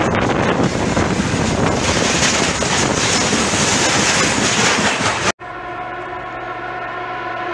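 Freight wagons rolling past on the rails, a dense rumble and clatter of wheels as the last cars go by. After a sudden cut about five seconds in, a steady horn with several tones sounds from an approaching ED4M electric train.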